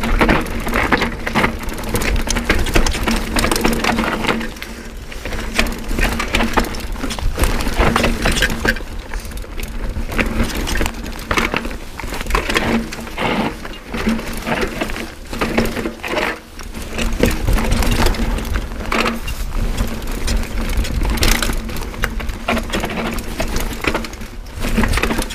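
Mountain bike ridden over a rocky trail: a continuous irregular clatter of knocks and rattles from tyres, chain and frame on the stones, with wind rumbling on the microphone.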